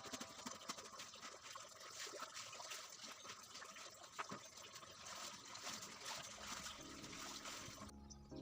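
Faint trickling water, a soft crackly hiss. Soft music comes in near the end.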